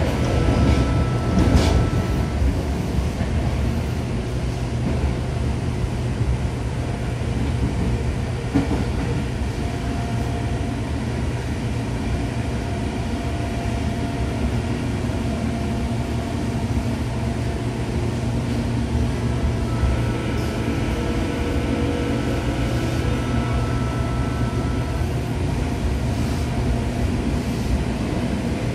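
Tobu 9000 series electric train running, heard from inside a passenger car: a steady rumble of wheels on rail, with faint steady whines from the running gear that come and go.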